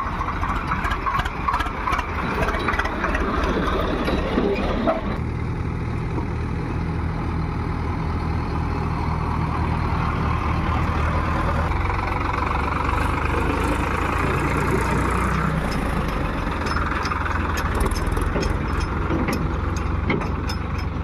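Heavy diesel engine of the loading machinery running steadily, with scattered sharp ticks over it. About five seconds in the noise thins out, leaving a steadier low engine hum.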